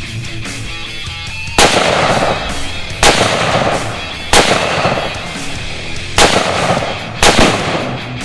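Five gunshots at uneven spacing, each a sharp crack trailing off over about a second, over background music.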